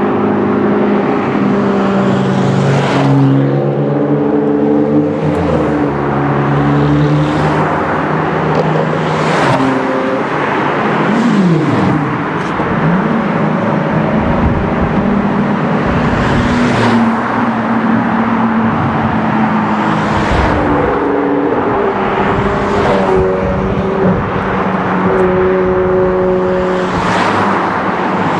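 Sports car engines running and revving as cars drive past one after another, the engine pitch rising and falling, with a quick dip and climb in revs about twelve seconds in.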